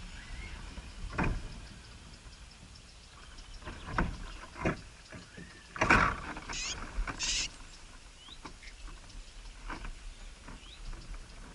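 A few short rising chirps from small birds, among scattered knocks and rustling, with a louder hissy rustle about two-thirds of the way through.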